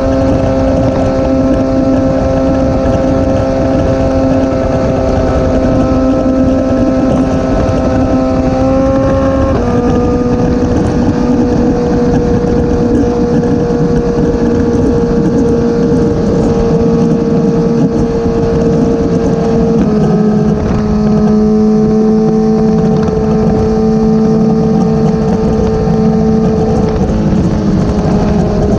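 Motorcycle engine running steadily at cruising speed with wind rushing over the microphone. The engine note drops slightly in two small steps, about ten seconds in and again about twenty seconds in, then holds.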